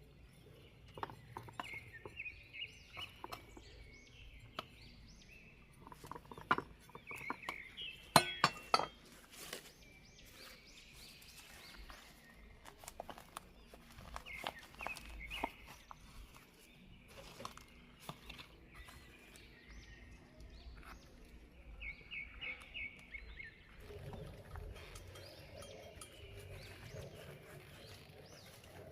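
Small birds chirping in short repeated trills, mixed with scattered light clinks and taps of glass or utensils; a louder cluster of clinks comes about eight seconds in.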